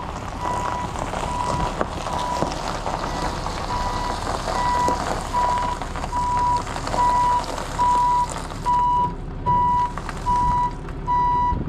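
Tow truck backing up: its reverse alarm beeps at one steady pitch, about four beeps every three seconds, over the truck's engine running. The beeps get louder in the second half.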